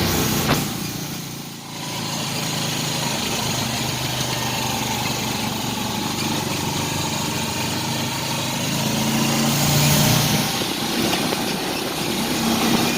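Small motorcycle engine of a passenger tricycle running under way, with wind and road noise. The engine note dips briefly near the start and swells again around ten seconds in.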